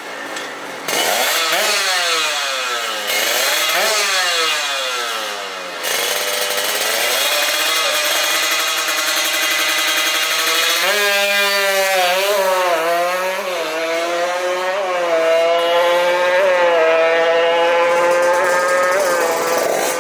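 Two-stroke Kawasaki KR motorcycle engine, bored out to 59 mm, revving hard: the pitch sweeps up and down several times, then holds higher and climbs with repeated short dips.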